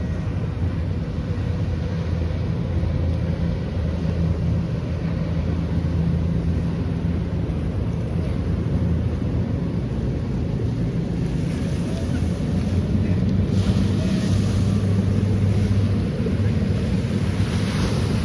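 Boat engine running at a steady low hum, with water rushing past and wind buffeting the microphone; stronger gusts of wind hiss come a little past halfway and near the end.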